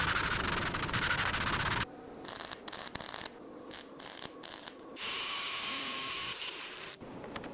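Abrasive sanding and rubbing noise in short cut-together stretches: a loud steady stretch that stops abruptly after about two seconds, scattered clicks and scrapes, then another steady stretch of sanding about five seconds in.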